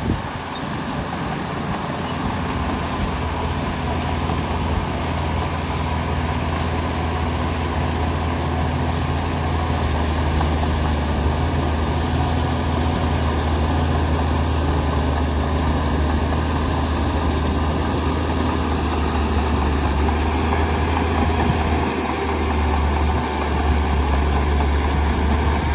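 Shantui DH17 bulldozer's diesel engine running steadily, a low drone with a haze of mechanical noise over it, dipping briefly about 22 seconds in.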